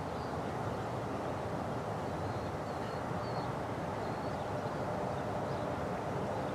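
Steady, even background noise with a few faint, short, high chirps in the middle.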